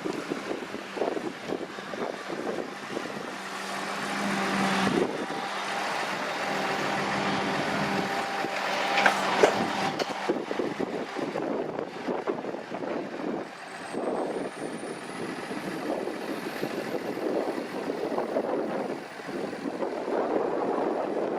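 New Holland T6070 tractor running under load as it pulls a CLAAS Liner rotary rake, with a steady engine hum that grows louder for a few seconds in the middle, then gusty noise from wind on the microphone.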